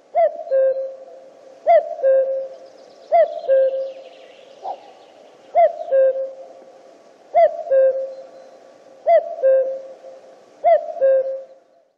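Male common cuckoo calling its two-note "cu-coo", the second note lower than the first, repeated seven times about every one and a half to two seconds, with a single short note in one longer gap.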